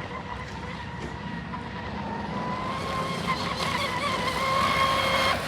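TFL Popeye RC boat's electric motor whining at speed, a steady high tone that rises slightly and grows louder, then cuts off suddenly near the end: the speed controller's low-voltage cutoff killing the power.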